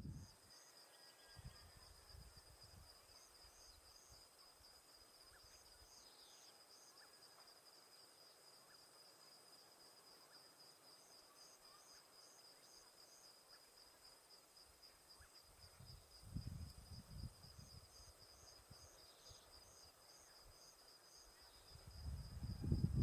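Faint outdoor ambience: a steady, high, pulsing insect trill throughout, with a few clusters of short high chirps. Low rumbles of wind or handling noise come about a second in, a little past the middle, and near the end.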